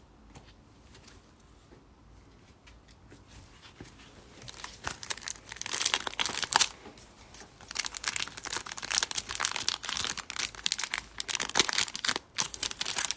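A wrapper on a pack of baseball trading cards crinkling and being torn open. The crackling starts about four seconds in, after a quiet start, and goes on in uneven crackles.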